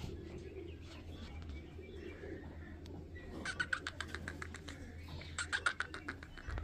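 A bird's rapid chattering call: two runs of quick, sharp notes, about ten a second, the first near the middle and the second near the end, over a steady low hum.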